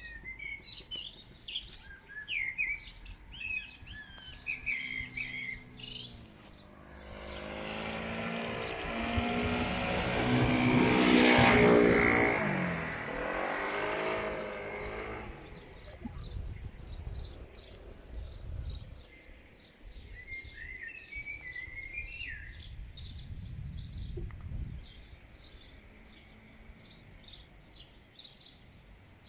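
Small birds chirping and singing while a motor vehicle approaches, passes close by and drives away. Its engine pitch drops as it goes past, about eleven seconds in, and this pass is the loudest sound. A low rumble follows, then the birdsong carries on.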